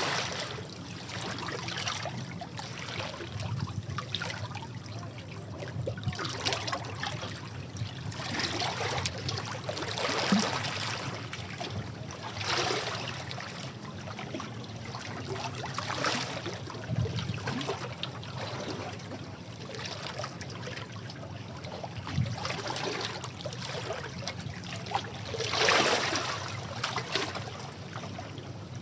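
Sea waves breaking and washing over rocks, a steady rush of water with a louder splash every few seconds.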